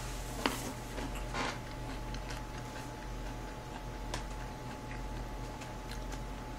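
Chewing a mouthful of chop steak with the mouth closed: a few soft, wet mouth clicks and smacks over a steady low hum.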